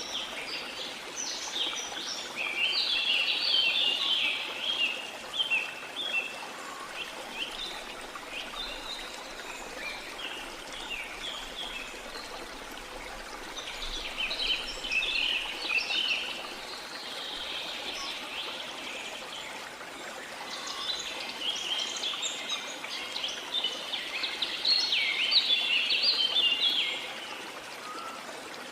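Steady rush of a flowing river, with songbirds chirping over it in three spells of rapid, high notes; the last spell, near the end, is the loudest.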